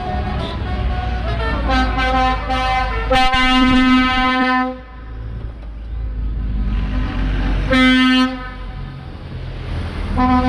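Truck air horn sounding over a steady low engine rumble: one long blast about two seconds in that swells louder and lasts nearly three seconds, then a short blast near the end.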